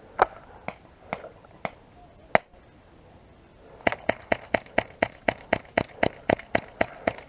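Airsoft gun firing single shots, sharp snapping clicks: a few spaced shots, then a quick run of about four shots a second from about four seconds in.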